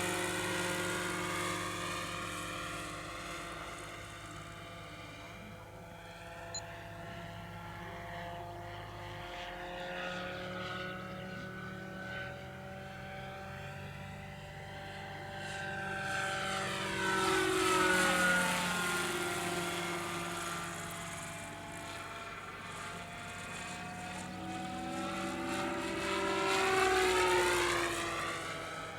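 Lockheed 286 helicopter flying past twice, its rotor and engine tone rising in pitch as it approaches and falling as it moves away, loudest about eighteen seconds in and again near the end.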